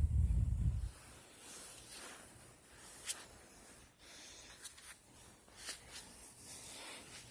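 A sleeping Chihuahua snoring softly, a faint hissing breath roughly every second or so. A low rumble in the first second.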